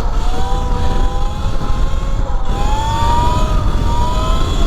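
Electric motorbike's motor whine under heavy wind rumble on the microphone. The whine climbs in pitch as the bike speeds up, drops briefly about two seconds in, then rises again.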